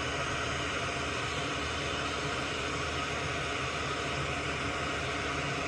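A fan running steadily: an even hiss with a faint low hum underneath.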